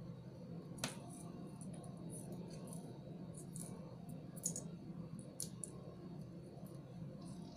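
Light clicks and ticks of small plastic beads and metal T-pins or pliers being handled, the sharpest about a second in and again about four and a half seconds in, over a steady low hum.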